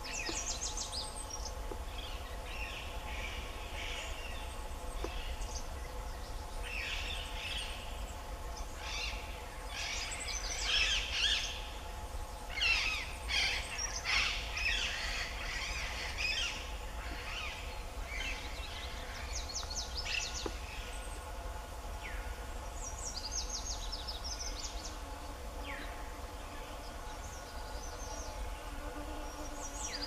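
Wild birds calling: bursts of high chirps and quick trills, busiest in the middle stretch and sparser near the end, over a steady hum.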